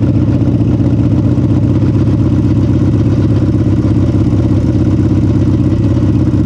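Harley-Davidson Sportster drag bike's 1275 cc air-cooled V-twin running loudly at a steady speed while the bike rolls along, with no revving.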